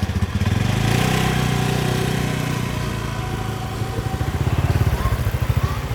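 A small engine running, a steady low pulsing whose pitch falls about halfway through.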